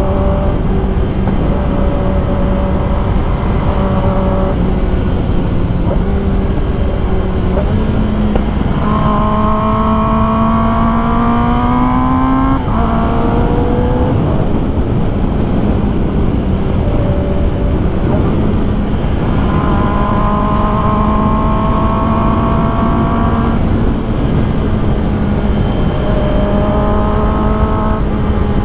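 Kawasaki ZX-10R's inline-four engine running at road speed under heavy wind rush. About a third of the way in, the engine note climbs for a few seconds, then drops suddenly at a gear change and settles back to a steady note.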